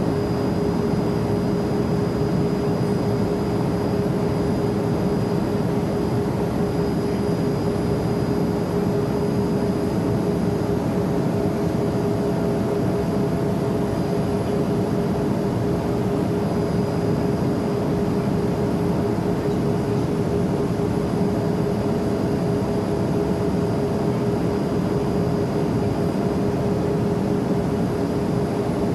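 Steady cabin noise inside a Learjet jet under way: a constant rush of air and engine with a steady low hum and a faint high whine, unchanging throughout.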